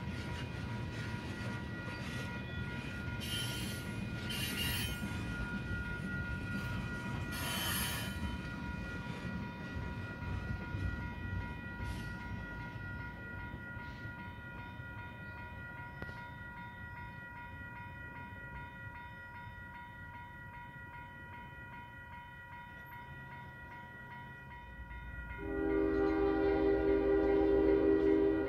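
Freight train tank cars rolling past with steady wheel-on-rail rumble and clatter and steady high ringing tones. About 25 seconds in, a Union Pacific ES44AC locomotive sounds its Nathan K5HL five-chime horn, a loud multi-note chord held for about three seconds.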